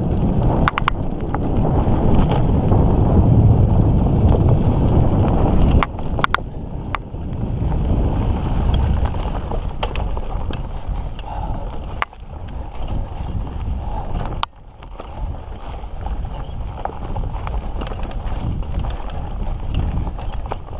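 Mountain bike rolling fast on a dirt trail: a steady low rumble of tyres and wind on the microphone, louder for the first six seconds, with frequent sharp knocks and rattles as the bike goes over bumps.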